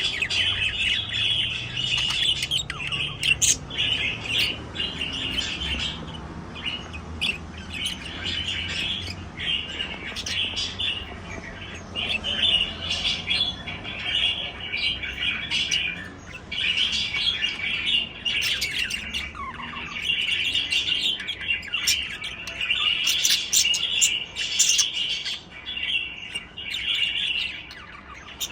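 Budgerigars chirping and warbling in continuous chatter, broken by many short, sharp calls.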